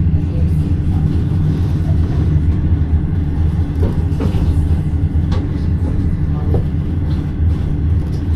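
Steady low rumble of a conventional passenger train running, heard from inside its sleeper carriage, with a few faint clicks midway.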